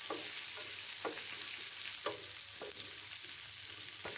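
Onion chunks, green chillies and whole coriander and cumin seeds sizzling in oil in a nonstick pan, stirred with a wooden spatula that scrapes and taps against the pan every half second or so.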